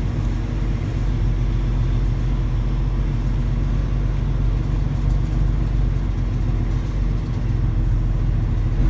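Semi truck's diesel engine running steadily, a low, even hum with no change in pitch.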